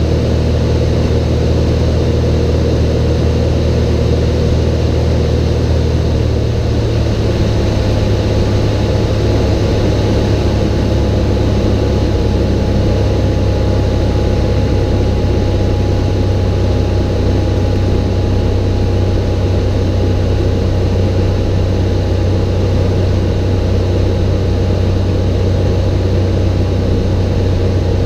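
Cessna 182's single piston engine and propeller running steadily. The engine note changes about six seconds in, then holds steady.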